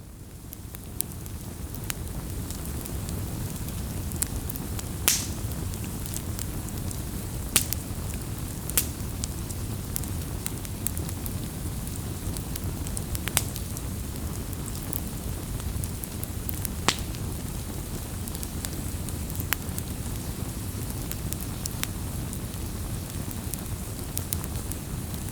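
Wood fire burning, with a steady low rushing and scattered sharp crackles and pops, the loudest about five, eight, thirteen and seventeen seconds in. It fades in over the first second.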